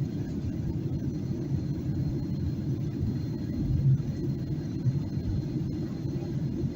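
Steady low drone inside the cabin of a Boeing 737-800 during descent: engine and airflow noise with small swells in level.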